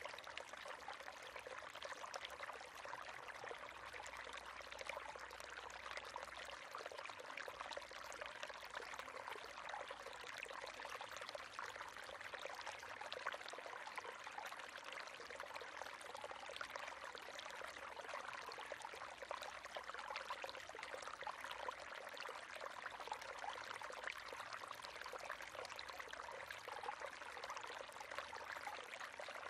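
River water flowing and splashing steadily, an even rushing with many small splashes.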